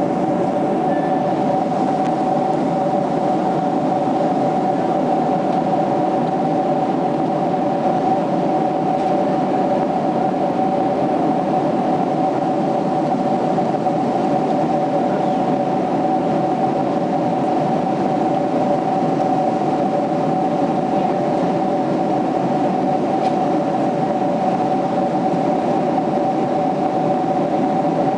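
Steady cabin noise of a Boeing 767-300ER jetliner in flight: a constant rush of airflow and engine noise with two steady humming tones running through it.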